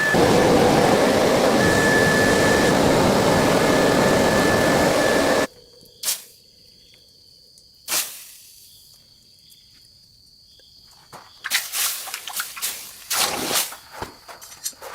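A loud, steady rushing noise with a faint whistle in it cuts off suddenly about five seconds in. Two single knocks follow, then a quick run of knocks and clatter near the end.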